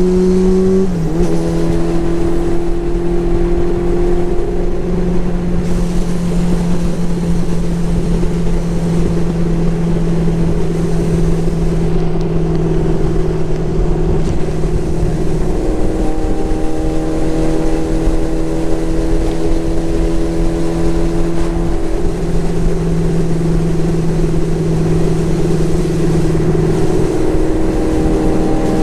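Motorcycle engine running at a steady cruising pace, its pitch stepping down about a second in and dipping again around the middle and near the end as the throttle eases.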